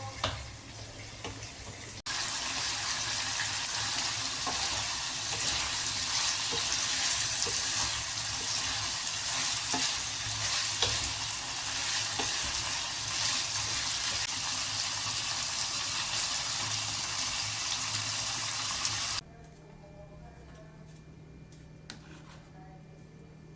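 Food frying in hot oil in a pan: a steady sizzle with scattered small pops. It starts abruptly about two seconds in and cuts off suddenly a few seconds before the end, leaving a quiet room with a low hum.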